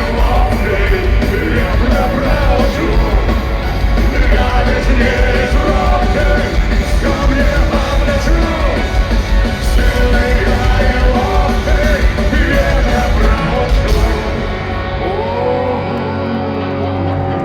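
Punk-rock band playing live through an arena PA, with a lead voice singing or shouting over drums, bass and electric guitars. About fourteen seconds in, the drums and bass drop out, leaving held chords and voices ringing on as the song winds down.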